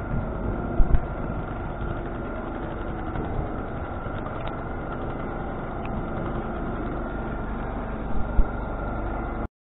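Steady rumble of a train in motion, with a few low thumps about a second in and again near the end; the sound cuts off abruptly just before the end.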